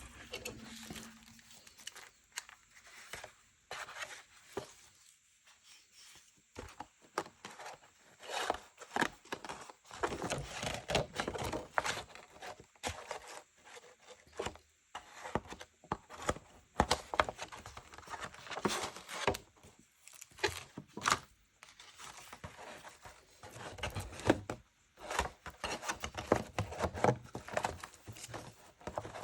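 Paper being handled for a junk journal: irregular rustling, crinkling and tearing, with small sharp taps in between.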